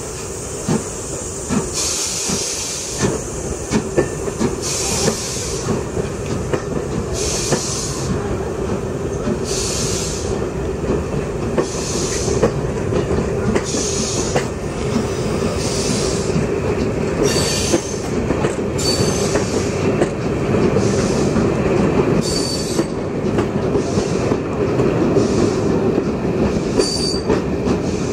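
Steam-hauled train of passenger coaches rolling slowly past: a steady rumble with wheels clicking over rail joints. Brief hisses come about every two seconds, and there are a few short, high wheel squeals in the second half.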